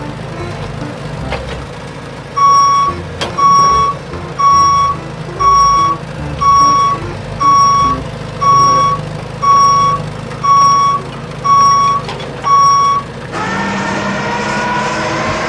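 Truck reversing beeper sounding eleven evenly spaced beeps, about one a second. Near the end a motor starts up with a rising whine.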